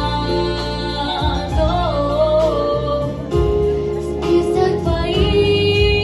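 Female voice singing long, wavering notes over a song's backing track with a steady bass and beat.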